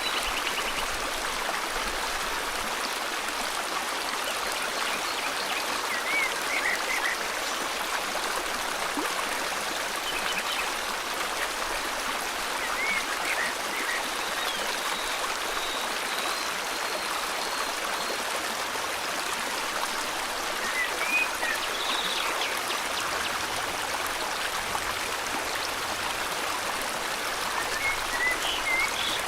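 A river flowing in a steady, even rush of water. Short high bird chirps come through it now and then.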